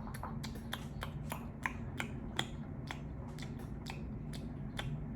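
Sharp, irregular clicks and ticks, about three a second, from handling the plastic sushi containers.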